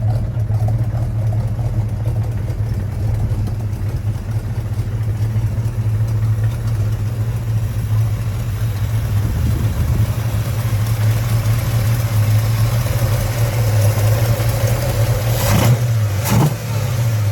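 Pontiac 428 cubic-inch V8, bored .040 over with a performance camshaft, idling steadily with a deep, even note. It is blipped twice near the end, and each blip is a quick rise in revs.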